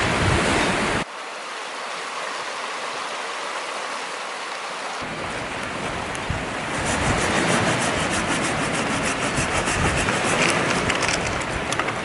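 Wind rushing over the microphone, cut off sharply about a second in and coming back a few seconds later. Later on it is overlaid by a run of quick small crackles, like a wood fire in a fire pit.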